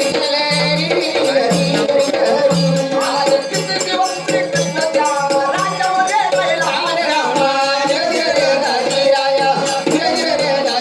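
Marathi kalgi shahiri folk music with a steady held drone, a regular drum beat and constant shaken rattling. A voice sings a wavering melodic line through the middle.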